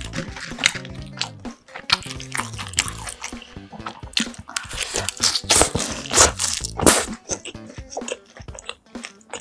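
Close-up eating sounds: crunchy bites and wet chewing of fried sweet and sour pork, in quick crackles that are loudest a little after halfway. Soft background music with a low bass line runs beneath.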